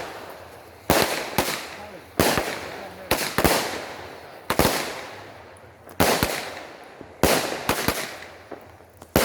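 Consumer fireworks exploding close by: about ten sharp bangs at uneven intervals, roughly one a second, each trailing off in an echo.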